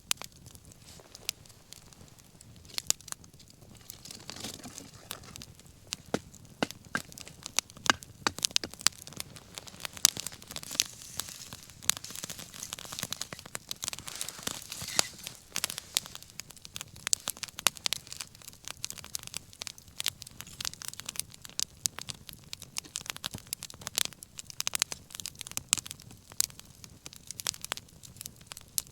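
Wood fire crackling, with frequent sharp pops over a steady hiss of burning.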